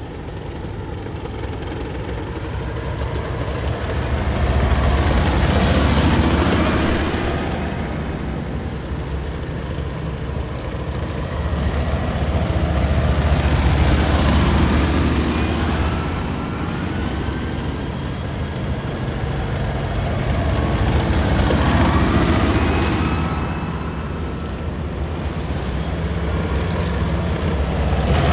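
Heavy military vehicles driving past one after another, a deep engine rumble swelling and fading as each goes by, about three passes, with a faint whine that shifts in pitch.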